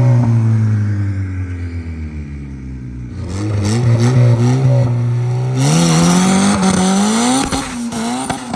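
Turbocharged Honda Civic EG hatchback's engine, through its new exhaust, falling off from high revs and then revving up again hard. About halfway through, a loud hiss of spinning tires joins as the car launches with wheelspin.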